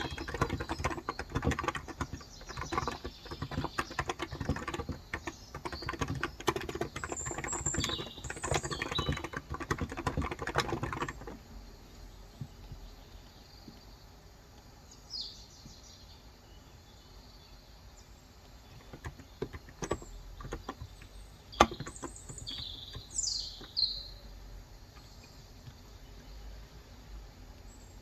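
Fast typing on a Cox Endeavor electrocapacitive (Topre-style) keyboard with 35 g switches, which stops about eleven seconds in. Birds chirp now and then, with a few scattered clicks and one sharp click a little past twenty seconds.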